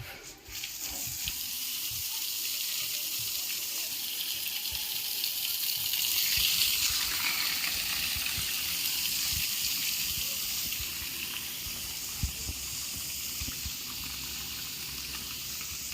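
Water running steadily from a tap, a continuous rushing stream that starts just after the beginning and grows louder around the middle.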